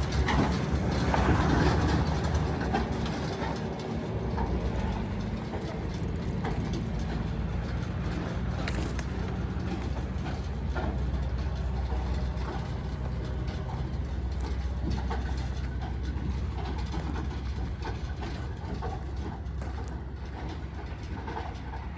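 Heavy diesel vehicle running steadily with a deep low rumble and scattered mechanical rattles and clicks.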